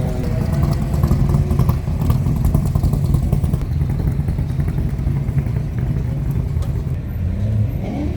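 Classic car engines rumbling loudly, with a rapid, uneven run of exhaust pulses.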